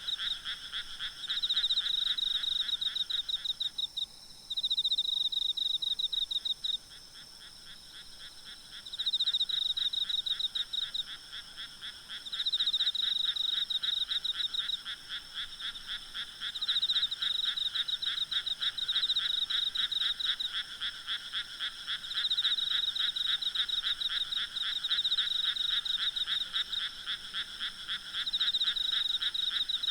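A chorus of frogs calling in overlapping bouts of rapid, rattling pulses, each bout a few seconds long, with a brief lull about four to seven seconds in. A faint, steady high insect trill runs beneath.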